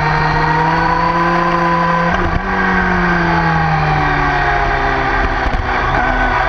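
Sport motorcycle engine running hard at track speed: the revs climb, break briefly about two seconds in, then fall in steps over the next few seconds and climb again near the end.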